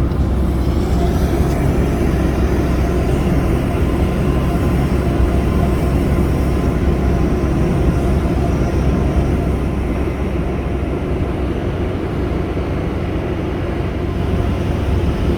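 Boat engine running steadily while under way: a continuous low rumble with a faint steady hum.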